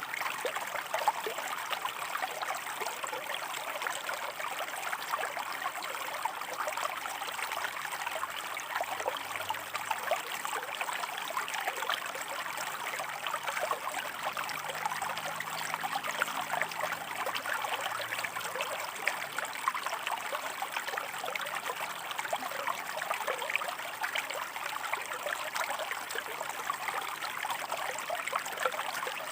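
A shallow stream running over rocks: steady, babbling flow with many small splashes and trickles.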